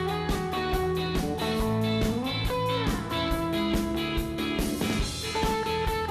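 Instrumental rock music: electric guitars playing sustained melodic lines over a steady drum beat, with a guitar note bending in pitch about halfway through.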